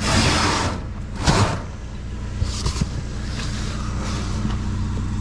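Two loud rustling rushes about a second apart as trash is rummaged through, then a few light clicks and knocks. Under it all runs the steady low hum of an idling vehicle engine.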